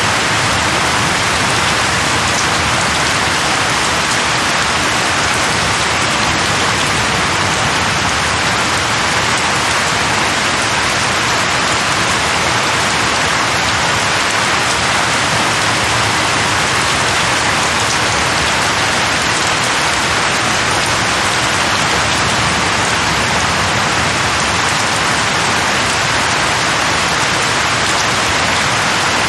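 Heavy rain falling steadily, a dense, unbroken hiss of drops hitting a surface with no thunder or breaks.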